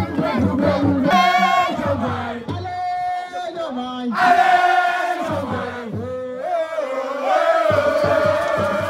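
Voices chanting and singing over music, with long held, wavering notes.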